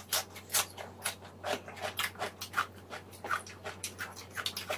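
Chewing on a wrap of fresh napa cabbage and lettuce leaves, with short, crisp crunches about three or four times a second.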